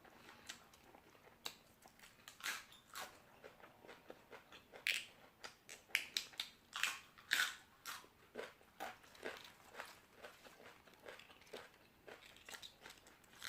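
Close-up chewing of crisp raw vegetables: irregular, crisp crunches and bites, busiest in the middle of the stretch.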